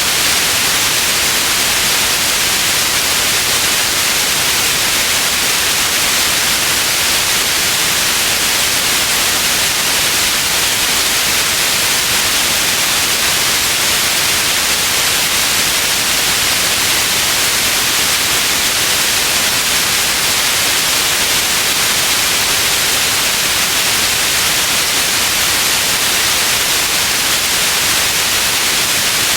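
Steady, unvarying white noise, a loud even hiss strongest in the upper register, with no events or changes.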